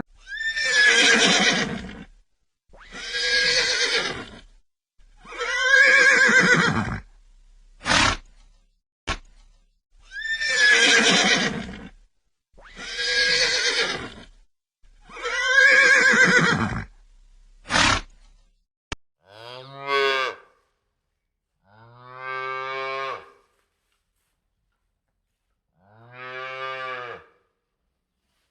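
Horse whinnying about six times, each long loud call falling in pitch, with a few short sharp snorts between them. From about two-thirds of the way in, a cow moos three times, lower and steadier.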